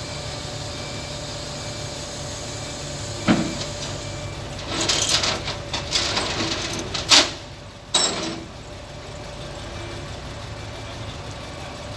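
Heavy engine running steadily, with a sharp metal knock about three seconds in, then a few seconds of hissing and scraping noise, and two sharp bangs near the end of that stretch.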